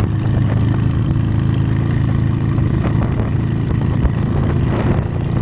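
Honda Steed motorcycle's V-twin engine running at a steady cruising speed while riding, heard from on the bike.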